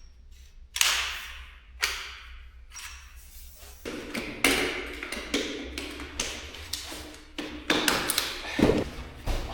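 A series of thuds, taps and clatter from camping gear being handled and set out. Two separate knocks come in the first two seconds, then busier knocking and rattling follows through the second half.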